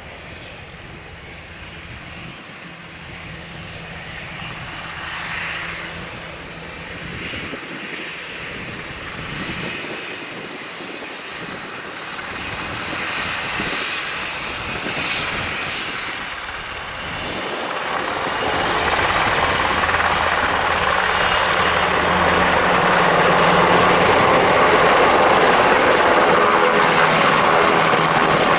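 UH-60 Black Hawk helicopter, its rotor and twin turbine engines running and growing steadily louder as it comes closer, loudest from about two-thirds of the way in.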